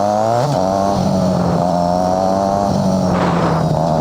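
Motorcycle engine accelerating, its pitch climbing before an upshift about half a second in, then running at a steady pitch that eases slightly lower near the end.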